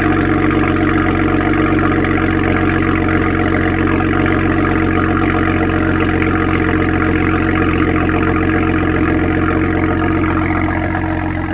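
BMW 335i's N54 twin-turbo straight-six idling after a cold start, heard through a Performance rear silencer and Wagner downpipe: a steady, even exhaust drone that eases off slightly near the end.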